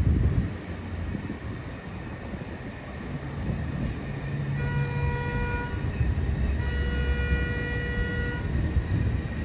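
Train horn sounding two blasts about a second apart, the second longer, over the low rumble of a train at a station platform. A loud low thump comes right at the start.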